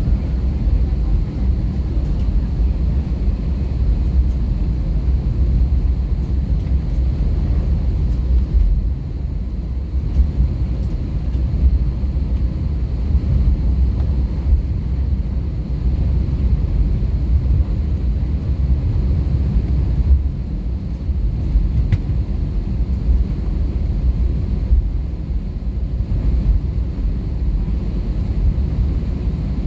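Airbus A320-214's CFM56 engines and airframe heard from inside the passenger cabin as a steady, low rumble.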